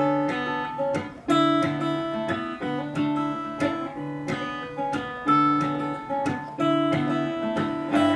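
Solo acoustic guitar played fingerstyle: picked chords and melody notes, with sharp percussive hits on the strings every second or so.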